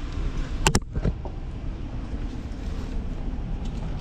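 Steady wind and road rumble on a chest-mounted action camera while cycling among city traffic, with a sharp double click a little under a second in.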